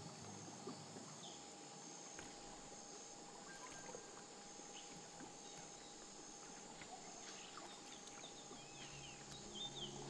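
Faint rainforest ambience: a steady, high insect drone, with a few short bird chirps, more of them near the end.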